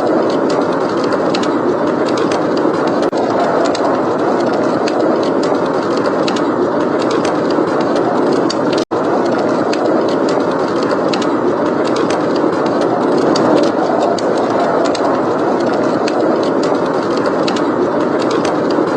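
Steady blizzard wind noise blended with the scattered small crackles and pops of a wood fire in a fireplace. The whole sound cuts out for an instant about nine seconds in.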